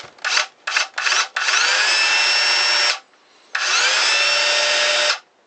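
Makita 5621RD circular saw motor test-run after a bearing rebuild: three quick trigger blips, then two runs of about a second and a half each. In each run the whine rises as the motor spins up, holds steady, then cuts off. The saw is running much better than before the repair.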